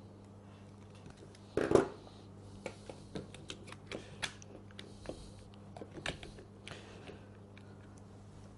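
Small parts clicking and tapping as a power-tool switch and its wiring are handled and fitted, with one louder knock about 1.7 s in and then a run of light clicks. A faint steady low hum lies underneath.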